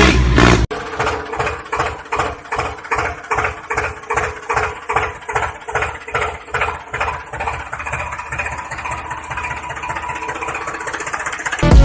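Small motor of a homemade mini tractor running with a steady, regular beat of about three pulses a second over a constant hum.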